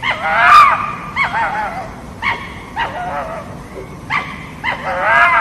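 A fox calling: about six short yelping barks whose pitch rises and falls, the first and last longest and loudest.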